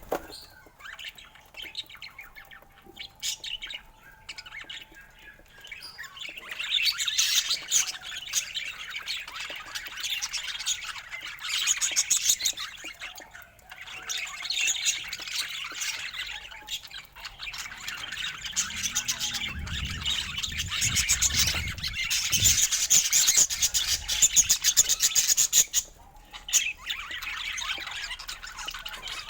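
Budgerigars chattering, chirping and squawking: sparse calls at first, then a dense, rapid warbling chatter from about six seconds in that eases off near the end.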